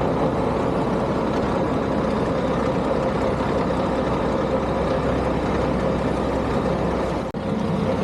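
Heavy engines of snow-removal machinery running steadily, with a constant hum. The sound drops out for an instant about seven seconds in.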